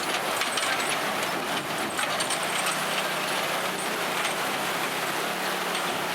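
Loaded lorry driving through flood water: a dense rush of splashing water with the engine's steady hum coming through about two seconds in.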